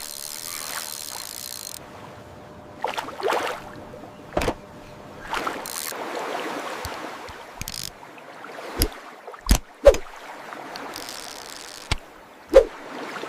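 Water sloshing and splashing, broken by a series of short sharp clicks, two of the loudest coming close together about ten seconds in.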